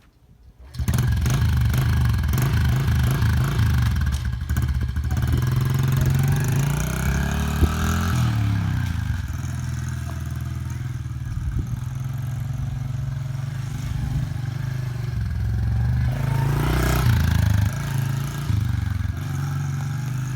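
A Honda 110 dirt bike's small single-cylinder four-stroke engine kick-started with a dead battery, catching about a second in, then running with the revs rising and falling several times.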